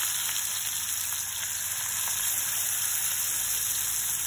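Spiced green mussel meat frying in hot oil in a pan, sizzling with a steady high hiss.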